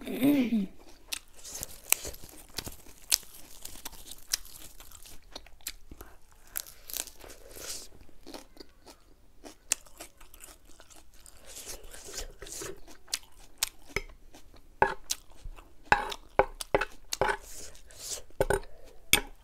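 Close-miked chewing of food in the mouth, with crunches and wet mouth clicks. A brief hum at the very start, and sharper clicks come thicker near the end.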